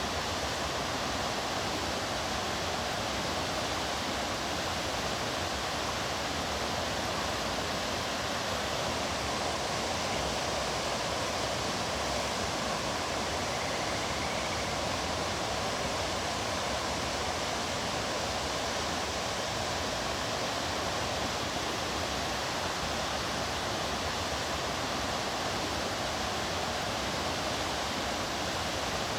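Rushing water of a mountain stream, a steady, even sound that does not change.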